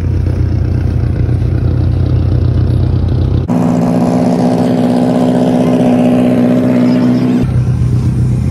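Modified car engines idling through their exhausts. A deep, steady idle switches abruptly about three and a half seconds in to a higher-pitched, rougher idle, then switches back near the end.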